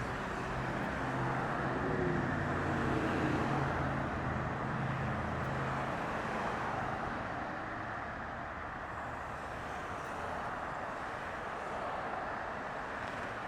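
Steady roar of distant jet airliner engines: a wide rushing noise with a low engine hum that fades after about six seconds.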